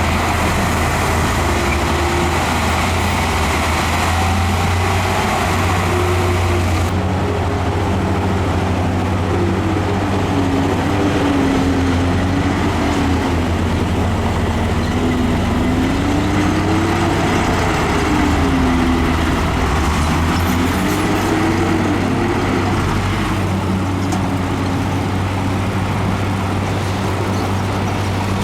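Heavy earthmoving machinery running: a steady low diesel engine drone with a whine that wavers up and down in pitch, the sound of the machine working under varying load.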